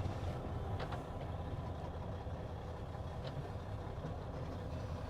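Mack semi truck's diesel engine idling steadily, with a couple of faint clicks.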